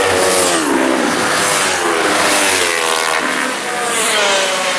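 Several racing motorcycles pass at speed. Their engine notes overlap and drop in pitch as each goes by, then rise again as they accelerate.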